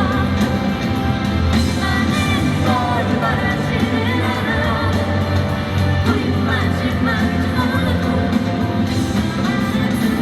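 Live pop-rock band playing with a vocalist singing over drums and bass, heard loud through a recording in the venue.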